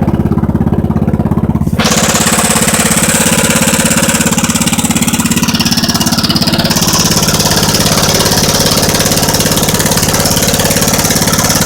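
Wheel Horse 857 garden tractor engine running steadily, some minutes after a cold start. About two seconds in, a steady hiss comes in on top of the engine and stays.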